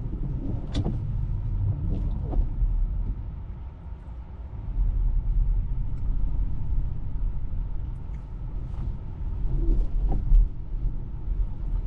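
Low, steady rumble of tyres and road noise inside an electric Tesla's cabin on a snow-covered road, growing louder about four and a half seconds in, with a few faint knocks.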